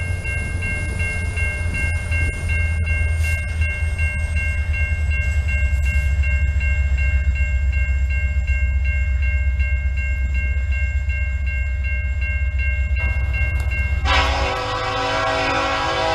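Freight train rolling through a grade crossing: a steady low rumble of the passing cars, with the crossing bell dinging at an even, steady pace over it. About 14 seconds in both stop, and a diesel locomotive's air horn sounds, held and chord-like.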